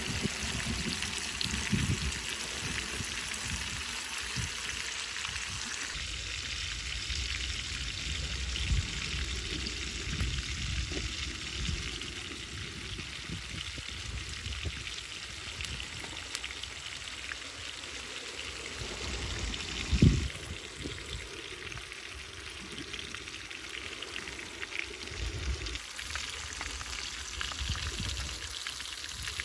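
Food sizzling in a pan over a campfire, a steady crackling hiss with scattered low knocks, and one louder thump about twenty seconds in.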